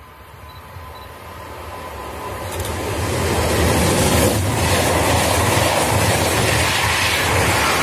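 Intercity passenger train approaching and passing close by at speed: the rumble of wheels on rails grows steadily over the first three seconds, then the coaches rush past loudly.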